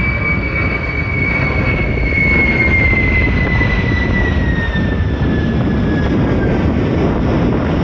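Loud aircraft engine noise from a military plane passing close by: a heavy rumble under a high whine that slowly falls in pitch as it goes past.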